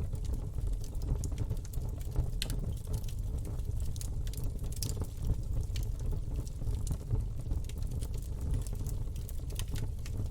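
Campfire burning: irregular sharp crackles and pops of the wood over a steady low rumble of the flames.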